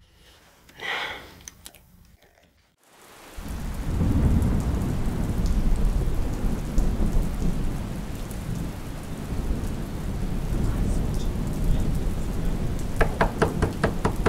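Steady heavy rain with a low rumble starts about three seconds in. Near the end comes a quick series of knocks on a door.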